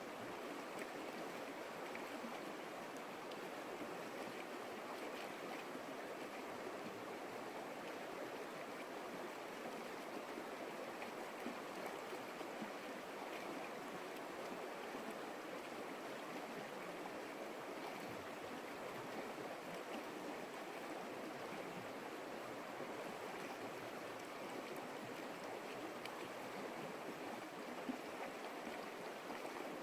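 Stream water running in a steady, even rush with no breaks.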